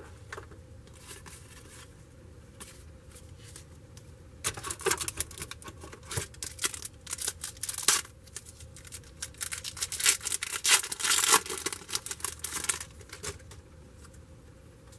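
A trading card pack wrapper being torn open and crinkled, with cards handled, in a run of short sharp rustles that starts a few seconds in and stops shortly before the end.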